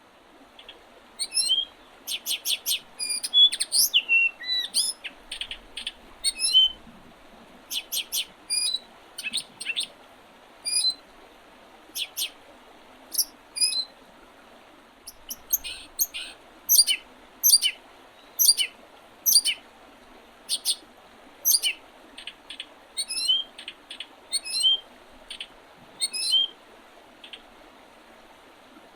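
Small birds calling in irregular runs of short, sharp notes, some ending in a brief upward slide, over a steady hiss of running river water.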